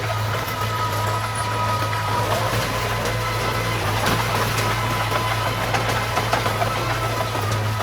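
Diesel engine of heavy earthmoving machinery running steadily, with a steady high whine riding on top.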